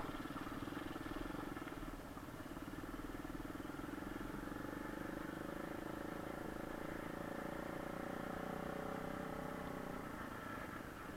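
Kayo pit bike engine running steadily as the bike rides, its note shifting about halfway through.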